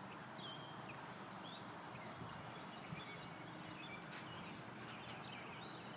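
Chicks peeping faintly: scattered short, high peeps that drop in pitch, over a steady outdoor hiss.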